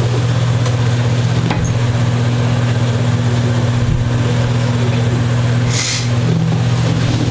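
Steady loud low hum with a fixed pitch, like mains-frequency electrical or motor hum, with a brief hiss about six seconds in.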